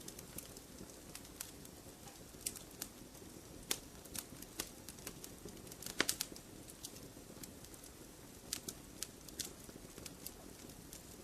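Wood fire crackling in a fireplace: irregular sharp pops and snaps over a steady low rumble of the flames, with a quick cluster of louder pops about six seconds in.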